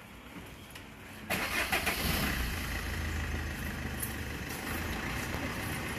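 Car engine starting a little over a second in, then running at a steady idle.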